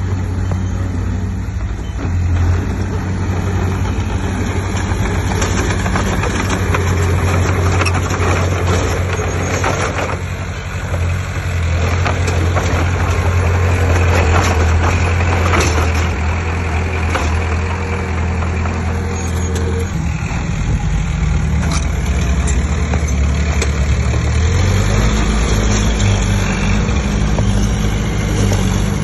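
Heavy diesel engine of earthmoving machinery running steadily, its pitch and load shifting a few times, with scattered knocks over it.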